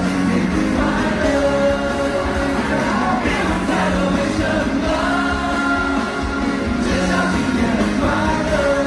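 Live pop-rock concert music: a band playing under sung notes that are held and drawn out.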